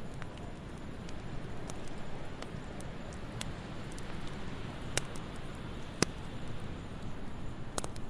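Fireplace fire crackling: a steady low rustle broken by sharp pops every second or so, the loudest about six seconds in.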